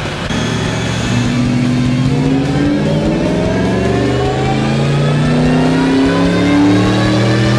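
Supercharged 2003 Ford Mustang Cobra 4.6-litre V8 running hard on a chassis dyno, its engine note climbing steadily in pitch as it revs up under load.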